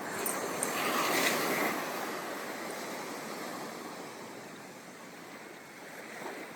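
Ocean waves breaking and washing up the beach: the surge swells about a second in, then slowly fades as the water runs back.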